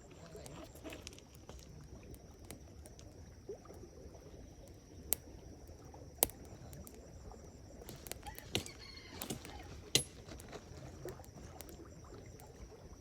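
Wood campfire crackling, with scattered sharp pops a second or two apart, the loudest between about six and ten seconds in.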